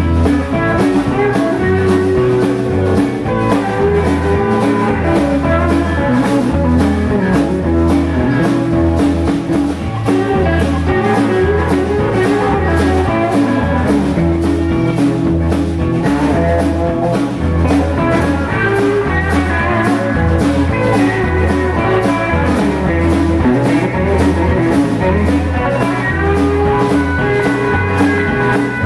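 Blues band playing an instrumental passage: guitar lead over bass and drums, with a steady driving beat.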